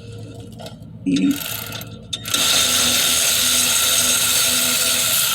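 Socket ratchet clicking rapidly and steadily for about three seconds, with a brief burst about a second in, as a brake caliper bolt is run out.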